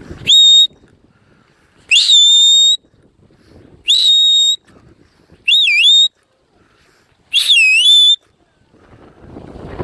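Sheepdog handler's whistle commands to a heading dog: five sharp, high blasts, the first short, the next two rising quickly and held level, the last two dipping and rising again.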